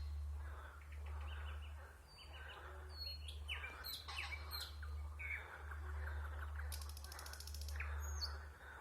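A nightingale singing varied phrases: clear whistles, quick downward sweeps, and a fast rattling trill near the end, with a steady low hum underneath.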